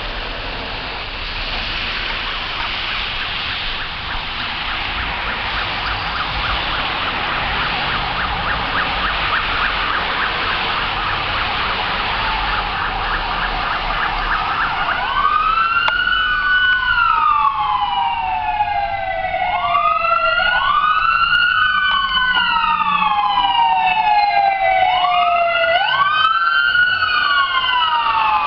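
Emergency vehicle siren approaching and growing louder. Over a steady hiss, a fast pulsing yelp comes first, then about halfway through a wail that rises quickly and falls slowly, repeating about every five seconds.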